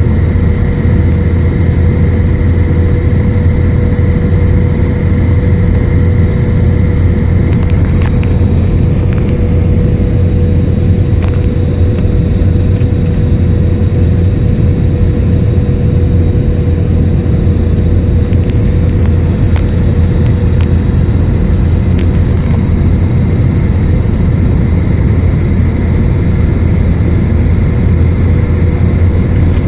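Steady drone of an Airbus A321's engines and airflow heard inside the passenger cabin, a deep rumble with a constant hum over it and a few faint clicks.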